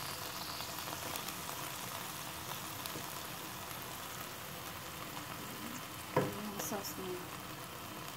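Boneless chicken leg frying in oil and teriyaki sauce in a pan, sizzling steadily, with one short knock about six seconds in.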